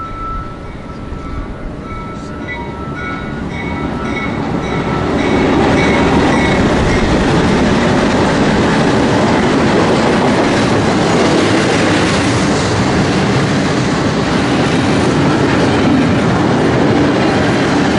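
Freight train passing close by, its wheels clattering over the rail joints. The sound builds over the first five seconds, then holds at a loud, steady level.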